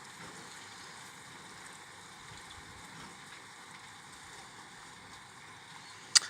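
Steady hiss of heavy rain falling. A single sharp click sounds just before the end.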